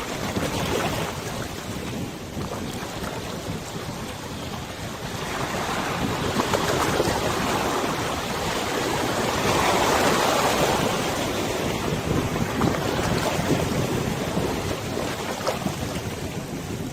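River waves washing and splashing, mixed with wind buffeting the microphone; the rush swells louder around the middle, then eases.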